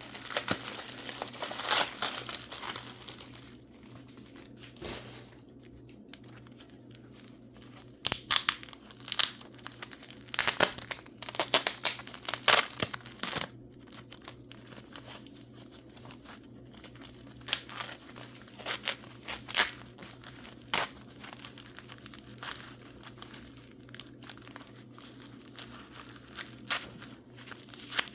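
Paper wrapping crinkling and tearing in irregular bursts as mineral specimens are unwrapped by hand. It is busiest at the start and again from about eight to fourteen seconds in, with sparser crinkles after that.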